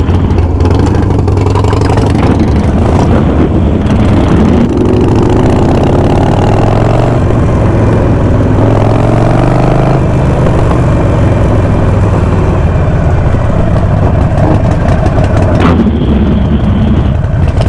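Harley-Davidson Sportster V-twin motorcycle engines running loudly, with engine speed rising and falling around the middle.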